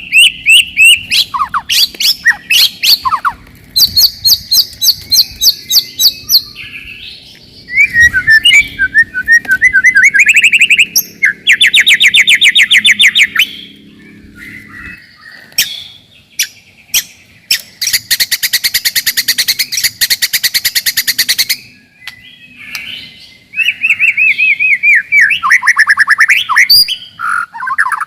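White-rumped shama (murai batu) singing a fast, dense, varied song: rapid strings of repeated notes and whistled glides that rise and fall, with a harsh buzzy rattle lasting a few seconds in the middle.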